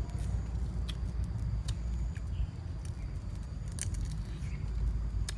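Crab shell cracking and crunching in a few short, sharp clicks as pieces of crab are bitten and chewed, over a steady low rumble.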